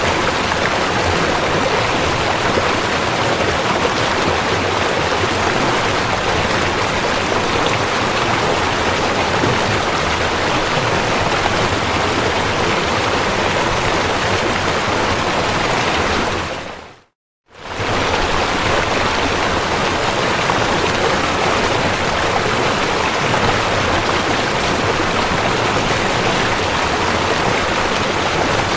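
River water rushing steadily. About 17 seconds in it fades out to a moment of silence and fades back in.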